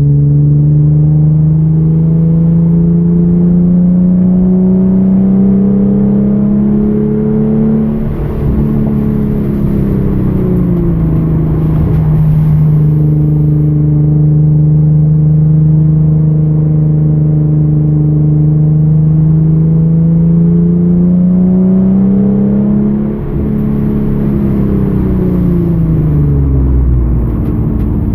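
2013 Hyundai Genesis Coupe's 3.8-litre V6 under load on track, revs climbing steadily. The engine note drops sharply about eight seconds in and again around twenty-three seconds in, each time with a brief dip in loudness, then sinks lower near the end as the car slows before picking up again.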